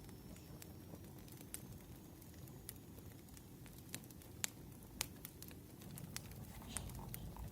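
Firewood crackling as it burns: irregular sharp pops and snaps over a low steady rumble, with two louder pops about halfway through.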